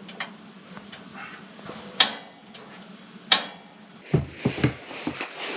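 Camping gear being handled and packed up: two sharp clacks about two and three and a half seconds in, then a run of dull thumps near the end, over a steady low hum.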